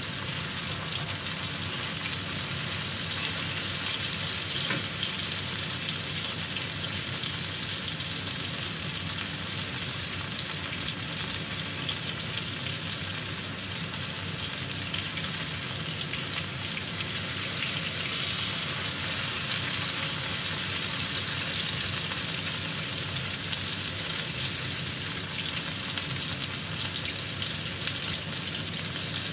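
Coated chicken pieces sizzling in hot oil in a nonstick pan, a steady crackle of shallow frying.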